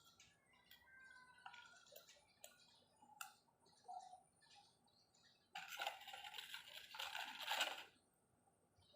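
Small metal engine parts being handled: scattered light clinks and taps, then about two seconds of louder metallic clatter and scraping.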